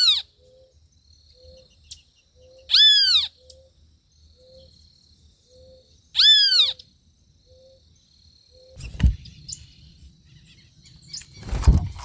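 A bird repeating a loud call that rises then falls in pitch, twice, about three and a half seconds apart, over soft short low notes repeating a little faster than once a second. Two low thumps come in the later part.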